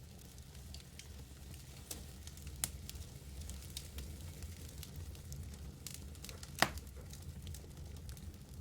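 Wood fire burning in a fireplace: a low steady rumble with scattered sharp crackles and pops, the loudest pop about six and a half seconds in.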